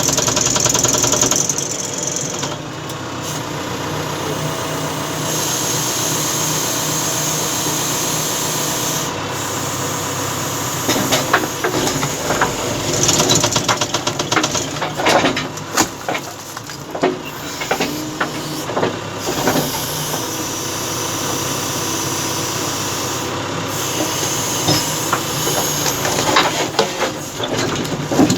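Terex 815 backhoe loader's diesel engine working steadily with a high hydraulic hiss while it pushes over concrete posts. About eleven seconds in, a run of sharp knocks and crashes starts and goes on for several seconds, with more near the end: the posts breaking and falling.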